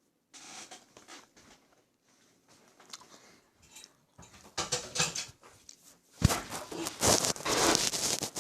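Close-miked eating sounds: a mouth chewing food with many small clicks and crackles. The sounds come irregularly, grow louder about four seconds in and are loudest from about six seconds in.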